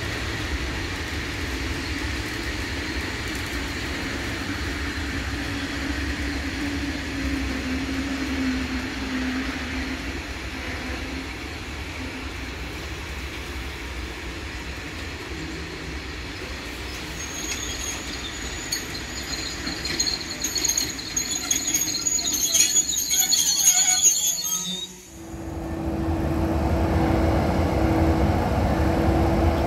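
Loaded coal wagons of a freight train rolling past with a steady wheel rumble, their wheels squealing high-pitched for several seconds before the sound cuts off suddenly. After the cut comes the steady hum of a pair of EU07 electric locomotives.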